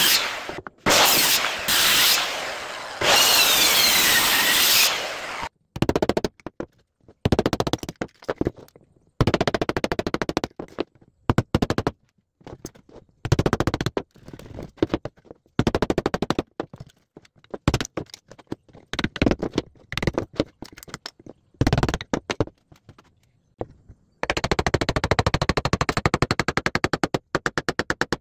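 Woodworking tool noise on wood: a few seconds of dense, steady working noise, then repeated short bursts of very rapid clicking strokes, each under a second long, with gaps between.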